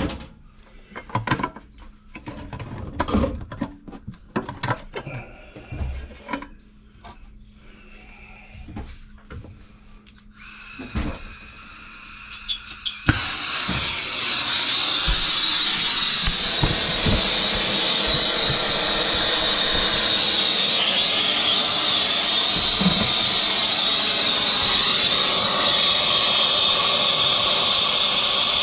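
Clicks and knocks of tools being handled, then a hiss of gas from about ten seconds in. An air-acetylene plumbing torch with a small A3 tip catches suddenly about halfway through and burns loud and steady, with a high whistle that drops in pitch and then holds.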